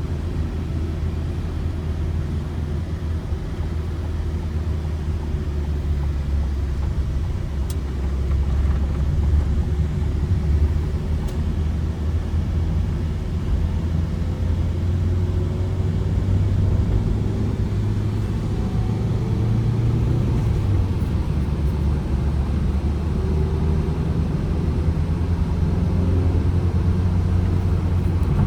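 Ford Transit Connect van's petrol engine running steadily while driving, with a low rumble and an engine note that climbs and then drops about 20 seconds in. Two faint clicks come about 8 and 11 seconds in.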